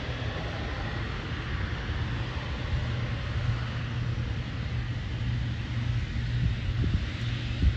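Jet engine noise from a Boeing 777-200LR's GE90 turbofans: a steady rumble with a low hum under it.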